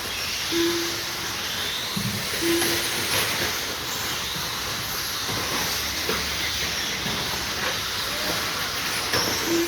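Electric stock-class RC trucks with 13.5-turn brushless motors racing around the track: a steady hiss of whining motors and tyres on the surface, with faint motor whines rising and falling. Short low beeps come about half a second in, again about two and a half seconds in, and near the end, with a brief thump about two seconds in.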